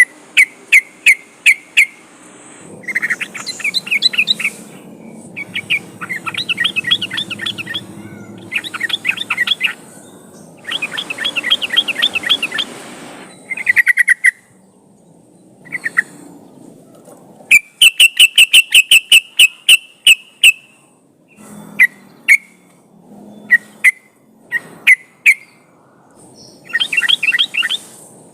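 Yellow-vented bulbul (trucukan) singing and calling: repeated bursts of quick, high chirping notes with short pauses between phrases, including a long fast run of sharp notes about two thirds of the way through.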